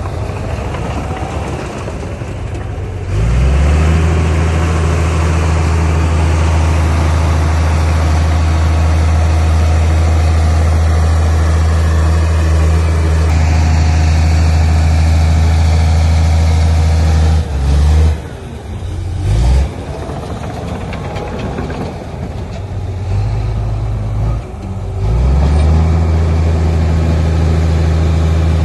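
Heavy diesel engine of earthmoving machinery running hard under throttle. It picks up in pitch and loudness about three seconds in, drops back briefly twice after the middle, and eases off for a couple of seconds near the end before pulling up again.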